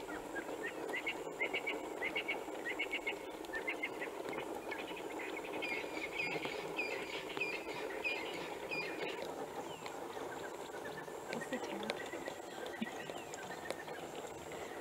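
Bird calling in fast series of short repeated chirps for roughly the first nine seconds, then only now and then, over a steady outdoor background hiss.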